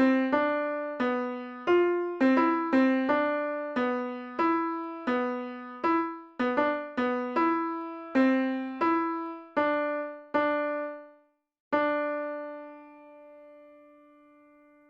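A simple melody played one note at a time on a keyboard instrument, at about two notes a second, each note dying away after it is struck. After a brief break near the end, a last note is struck and left to ring and fade.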